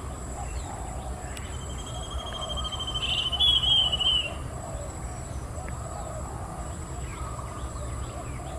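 Little bronze cuckoo giving its trilling call: one quick trill, slightly falling in pitch and about three seconds long, starting about a second and a half in, over a steady high whine.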